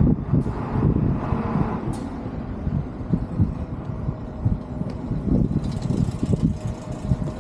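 Road vehicle running close by, a low engine rumble with a faint steady hum, mixed with irregular low rumbling gusts of wind on the microphone.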